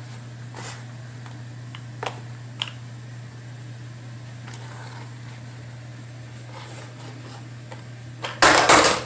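Plastic parts of a stick vacuum cleaner being handled, with a few light clicks and then one loud, brief scuffing noise near the end, over a steady low hum.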